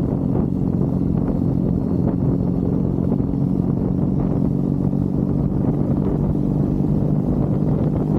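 Triumph Bonneville's parallel-twin engine running at steady revs while riding, one even engine note that holds the same pitch throughout.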